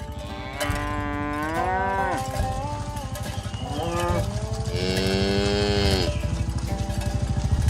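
Cattle mooing: two long moos, the first about a second in and the second around five seconds in, each rising and then falling in pitch.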